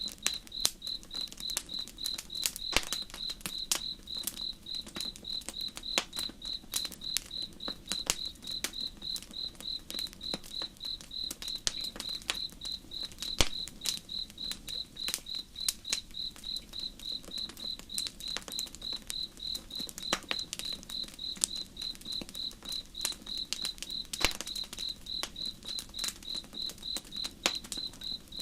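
A cricket chirping steadily in an even, fast rhythm, with a campfire's wood crackling and popping in sharp, irregular snaps.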